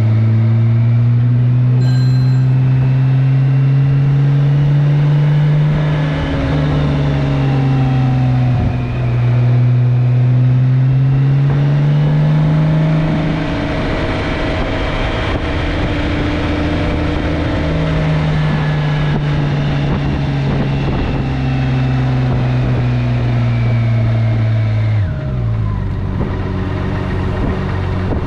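Stock-exhaust motorcycle engine heard from the bike while riding, its note rising and falling slowly as the throttle opens and eases. Near the end the revs drop sharply and then climb again.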